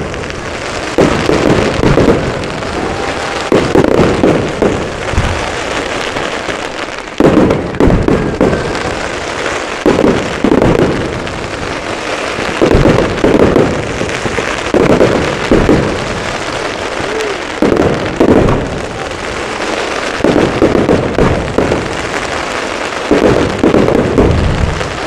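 Fireworks display: aerial shells bursting in a steady barrage, a heavy boom every second or two, often in quick pairs, with crackling in between.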